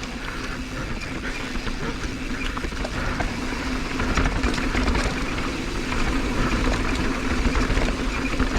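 Mountain bike descending a rough, rocky dirt trail: tyres rolling over broken ground, with a constant rattle of small knocks from the bike and wind rumble on the helmet camera's microphone. A steady buzzing tone runs under it.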